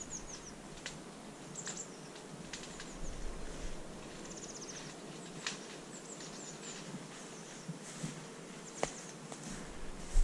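Small birds calling in the scrub: scattered short, high chirps and a quick trill about four seconds in, over a faint outdoor background. Near the end, a rustle of footsteps through dry vegetation.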